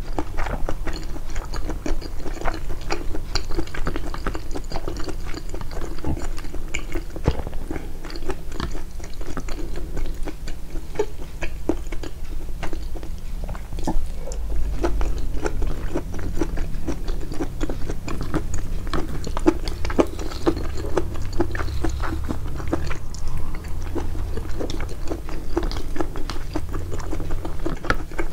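Close-miked chewing of food, a dense run of small wet clicks and smacks in quick, irregular succession.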